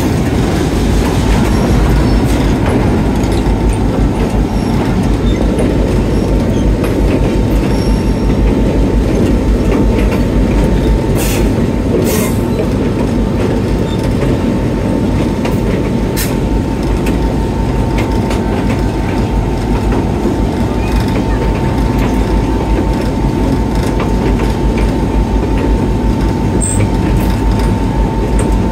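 Diesel-hauled excursion train rolling along: a steady heavy rumble with a thin, high, steady squeal over it, and a few sharp clicks.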